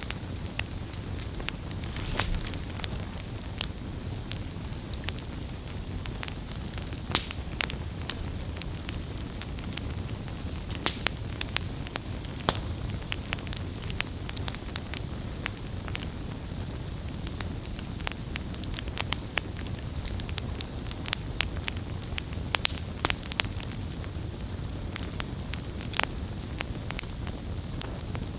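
Wood campfire crackling, with many irregular sharp pops over a steady low rumble and hiss.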